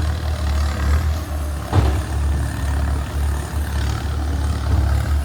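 Kubota M6240SUH tractor's four-cylinder turbo diesel running steadily through an aftermarket 3-inch exhaust, a deep low rumble. A single short knock sounds about two seconds in.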